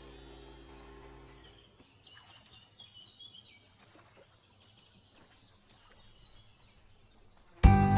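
Background music fades out, leaving faint outdoor ambience with small birds chirping softly. Near the end, guitar music starts abruptly and loudly.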